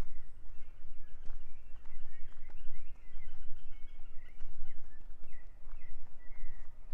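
Small birds chirping, a busy run of short high notes, over a steady low rumble.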